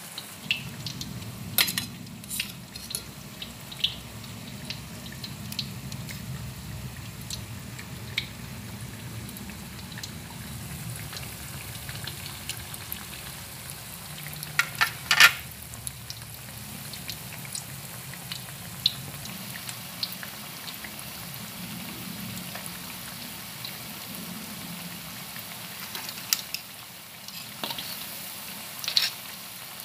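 Potato patties deep-frying in hot oil in a wok: steady sizzling broken by scattered sharp crackles, the loudest cluster about halfway through.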